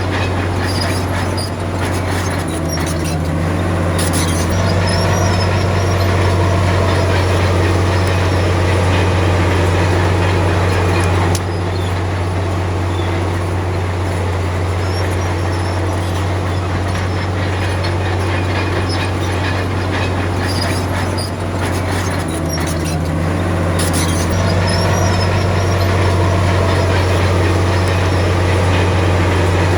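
Komatsu D53P crawler bulldozer's diesel engine running steadily under load, with scattered clanks and knocks from the machine working. The engine note shifts briefly twice.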